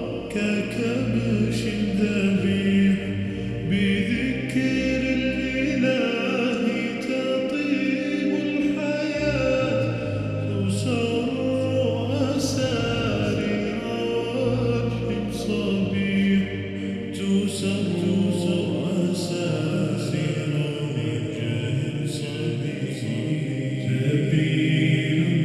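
Slowed-down, reverb-heavy a cappella nasheed: layered voices holding sustained sung notes with no instruments.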